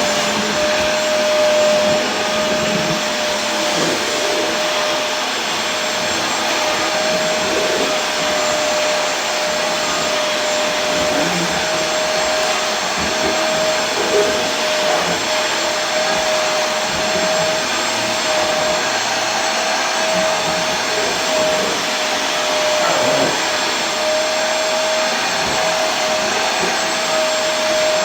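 Vacuum cleaner running steadily: an even rushing of air with a constant motor whine.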